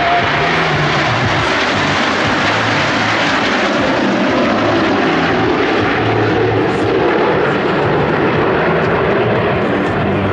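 Airplane engine noise: a loud, steady rush that holds level throughout.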